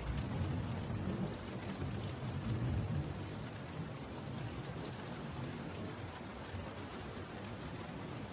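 Steady rain ambience with a low rumble of thunder that fades out about three seconds in.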